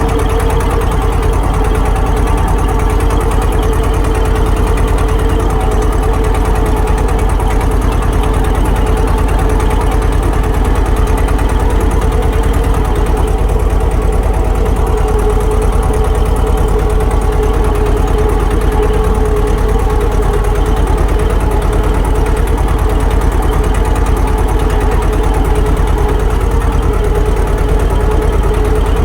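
Swaraj tractor's diesel engine running steadily at an even speed.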